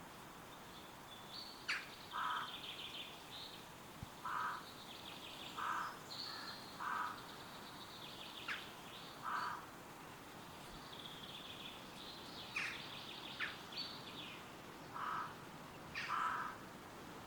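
Woodland birds calling over a steady hiss of wind in the trees. One bird repeats a short, harsh call every second or two, with higher twittering and sharp chirps in between.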